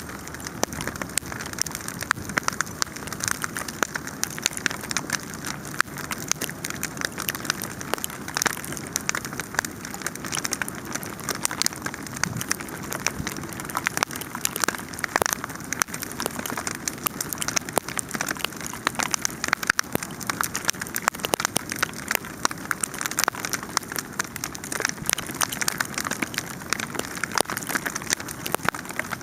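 Wood fire crackling: dense, irregular pops and snaps over a steady hiss.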